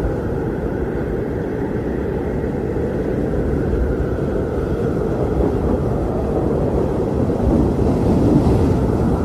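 Strong blizzard wind blowing in a steady, low rush, swelling a little near the end.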